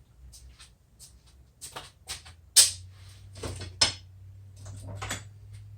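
Irregular clicks and knocks of tools and parts being handled on a workbench, loudest in a sharp knock about two and a half seconds in and another just before four seconds. A low steady hum comes in with the first loud knock.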